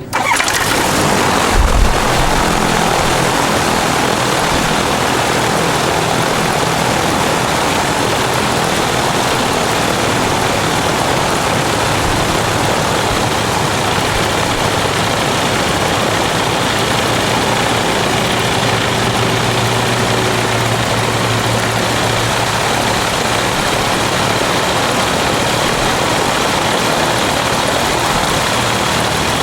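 Ultralight aircraft's propeller engine running steadily at high power: a loud, even drone with a rush of noise, starting suddenly and holding level throughout.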